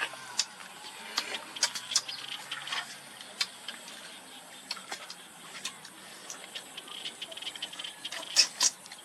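Fried crab shells being cracked and eaten: irregular sharp cracks and clicks, several a second, with the loudest pair about eight and a half seconds in.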